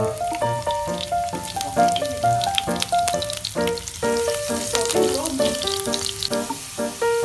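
Sliced garlic and shallots sizzling in hot oil in a non-stick pan, with fine crackling spatters that are busiest in the middle stretch. Ragtime piano music plays over it.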